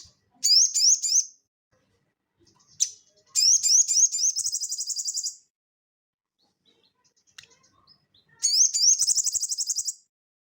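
A sogon (little spiderhunter) singing in three high-pitched bursts. Each burst is a few quick rising notes that run straight into a fast, even trill.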